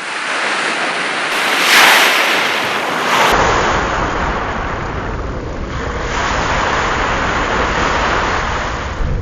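A loud rushing noise like surf or wind, swelling and ebbing, cut together from several recordings: its tone changes abruptly about a second in and again a little after three seconds in, where a deep rumble joins it.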